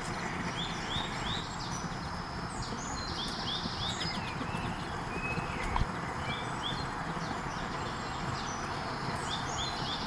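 Small birds singing in repeated quick series of three or four short, high chirps over a steady outdoor background hiss, with a single soft thump near the middle.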